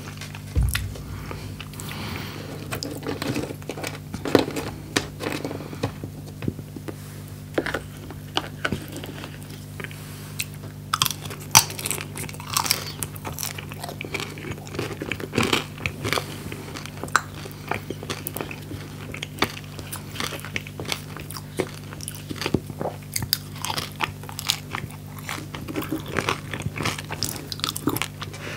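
Close-miked chewing of crunchy fried food, French fries, with many sharp crunches and wet mouth clicks, over a steady low electrical hum.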